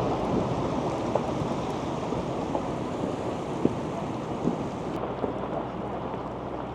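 Tidewater glacier calving: a low, thunder-like rumble of falling ice that slowly fades, with a few sharp cracks in it.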